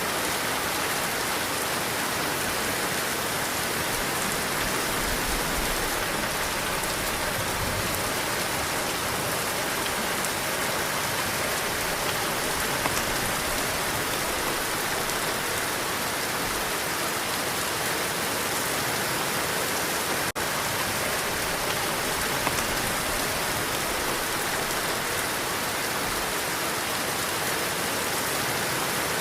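Heavy rain falling steadily, a dense, even hiss, with a momentary dropout about twenty seconds in.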